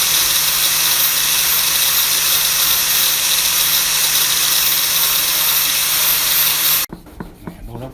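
Electric power tool running steadily, a loud hiss over a low hum, cutting off abruptly near the end.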